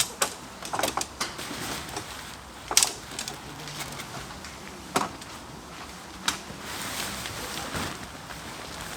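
Scattered sharp clicks and knocks from handling tent-pitching gear, over a steady background hiss.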